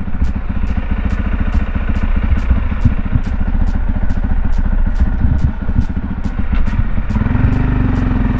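Motocross motorcycle engine running with a busy, uneven pulsing, turning into a louder, steadier engine note about seven seconds in.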